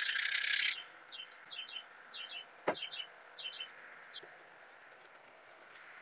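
Small bird chirping in short doubled notes, repeated about every half second. A brief burst of hiss at the start is the loudest sound, and a single sharp click comes a little before the middle.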